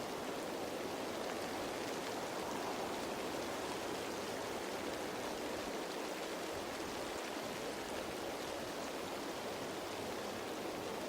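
Steady rain falling on foliage, an even hiss of many drops without any single drop standing out.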